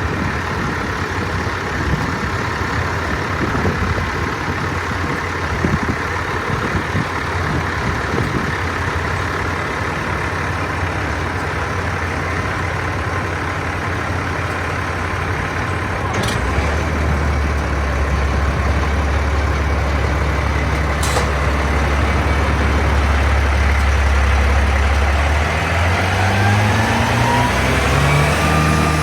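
Diesel engine of a 2010 Peterbilt PB340 vacuum truck (Paccar PX-8) running steadily, its low drone getting stronger partway through. Near the end it revs up in a smooth rising pitch. Two sharp ticks are heard in the middle.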